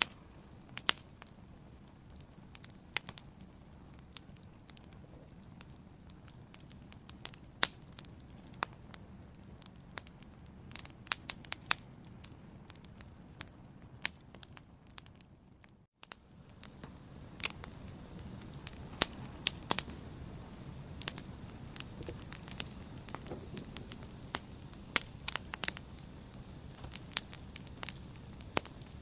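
Wood fire burning in a fireplace: a steady low rumble of flames with frequent sharp, irregular crackles and pops from the burning logs. The sound cuts out for a moment about halfway through, then the fire carries on slightly louder.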